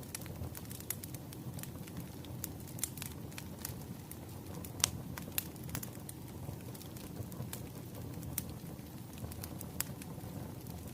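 Firewood burning and crackling: a steady low rumble with scattered sharp pops, one louder pop about five seconds in.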